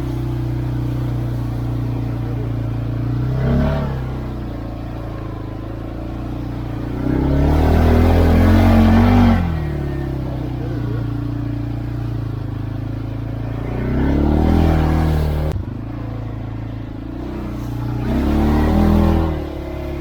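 CFMoto 520L ATV engine running under way, its steady drone swelling in pitch and loudness four times as the throttle is opened and closed. The longest and loudest surge comes a little under halfway through.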